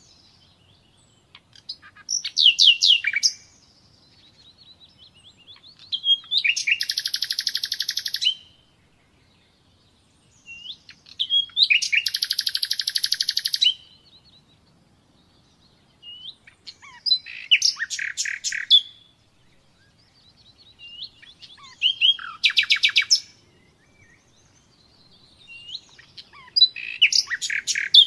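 Common nightingale singing: six phrases of fast repeated notes, one every four to five seconds, each about two seconds long, with soft single whistled notes in the pauses between.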